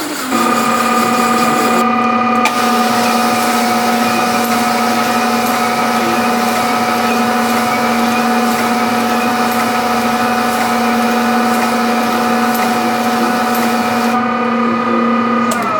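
An electric machine tool's motor running steadily at one constant pitch with a few clear tones, then switched off near the end and spinning down with a falling whine.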